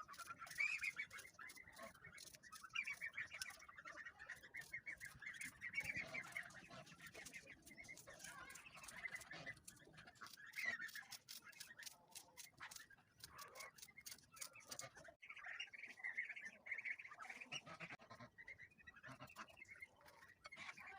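Farmyard fowl calling faintly with many short chirps and squawks. A quick run of sharp taps comes from about ten to fifteen seconds in.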